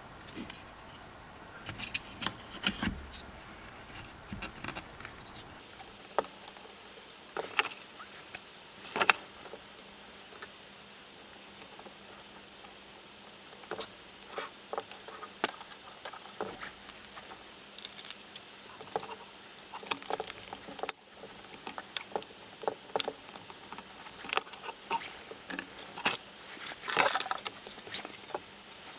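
Irregular clicks, taps and short rattles of the plastic housing and small parts of a Makita cordless stick vacuum being handled by hand while it is taken apart or put back together; no motor is running.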